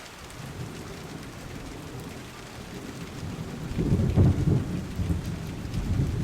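Steady rain with thunder rumbling low, swelling about four seconds in and again near the end.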